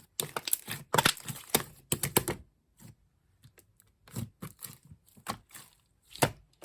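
Clear slime being pressed and stretched by hand, giving a run of sharp clicks and pops from bursting air pockets: close together for the first couple of seconds, then sparser and fainter.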